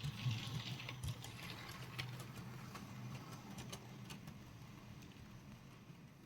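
OO gauge model locomotive running on the layout: a steady electric motor hum with irregular clicks of the wheels over the rail joints, slowly getting quieter.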